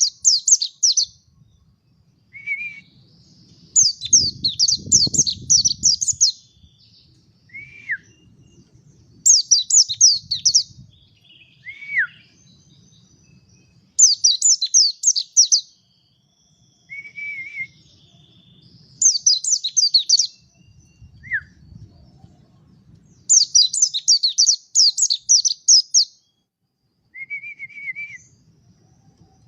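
Mountain white-eye (pleci montanus) singing: a short down-slurred note, then a burst of rapid, high, twittering notes lasting one to two seconds, repeated about every four to five seconds.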